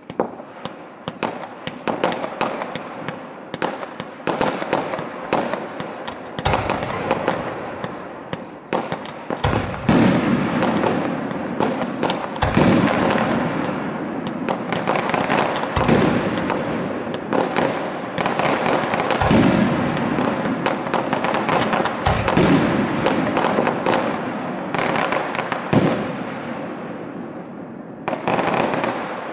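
Fireworks display finale: continuous rapid crackling and popping of many shells, with heavy booms about every three seconds from about six seconds in, each trailing off in a long fading rumble. The crackle eases near the end before one last burst.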